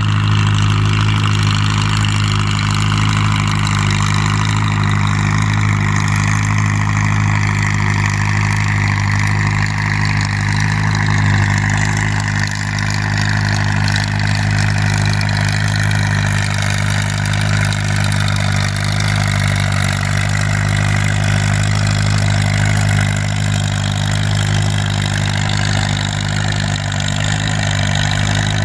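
Farm tractor engine running steadily under heavy load for the whole stretch, as in a tractor pull run dragging the weight sled, with a hiss of mechanical noise above the engine's low, even note.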